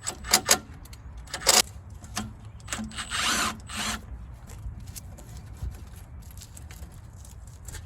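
A handheld power tool run in short bursts: a few quick blips, then one longer run of about a second, then faint clicking.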